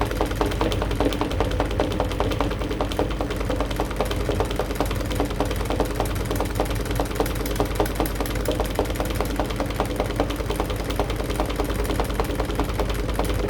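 Aqua AQW-DX12M front-loading drum washing machine running mid-cycle, heard through its own top panel: a steady motor hum with rapid, fairly regular knocks and clatter.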